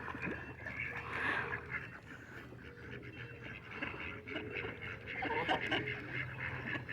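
A flock of ducks quacking and chattering, many short calls overlapping without a break.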